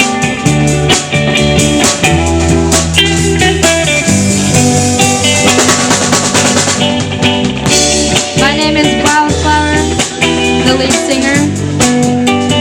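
Live band playing an instrumental passage: guitar over bass and a drum kit, with no singing.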